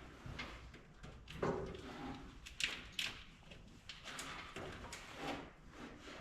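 Wiring harness and its plastic connectors being handled and fitted: a run of irregular scrapes, clicks and rustles.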